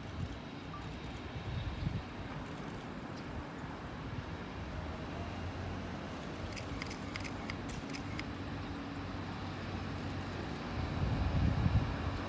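Steady low rumble of a train approaching on an elevated track, growing louder over the last second or two, with a few faint clicks midway.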